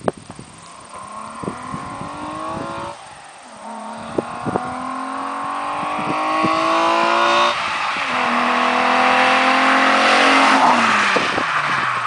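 VW Golf GTI VR6 engine through a Remus aftermarket exhaust, accelerating hard. The pitch climbs through two gear changes, about 3 and 7.5 seconds in, and the sound gets louder as the car approaches. Near the end the pitch drops away as the car passes.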